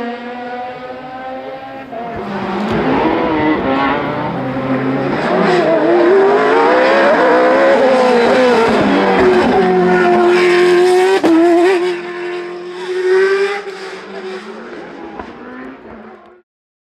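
Racing car climbing a hill-climb course, its engine rising in pitch and dropping again through several gear changes as it comes closer and passes, with a sharp crack about eleven seconds in, then fading into the distance. The sound cuts off abruptly near the end.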